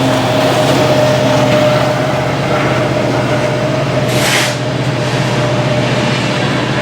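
Train rolling past close by: a steady low diesel drone under the noise of cars on the rails, with a thin steady squeal held throughout. A brief hiss comes about four seconds in.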